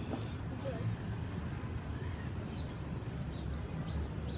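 A steady low rumble with several short, high chirps from small birds in the second half.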